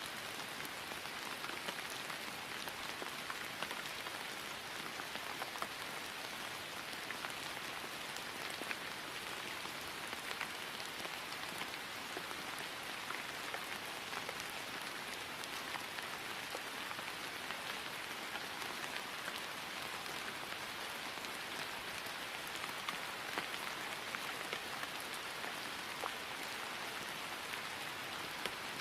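Steady rain falling on grass, a continuous hiss with many small individual drop taps throughout.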